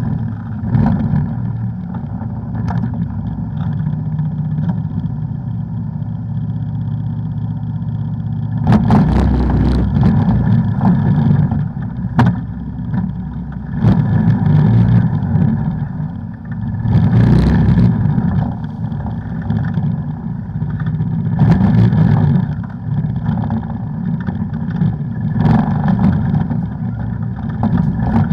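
An off-road vehicle's engine running throughout, swelling louder and easing off several times as the throttle is opened and closed. A few sharp knocks and clatters are heard along the way.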